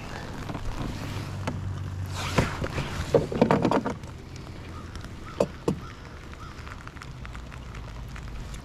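Handling noises aboard a fishing kayak: a clatter of knocks and rattles about two to four seconds in, then two sharp knocks over a low steady rumble.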